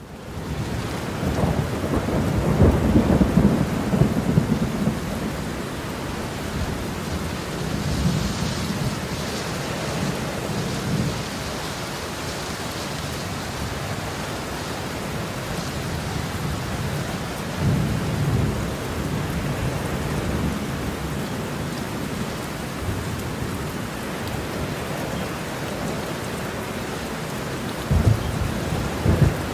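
Heavy rain pouring steadily, with rolling thunder rumbling loudest in the first few seconds, another rumble past the middle, and a sharper thunderclap near the end.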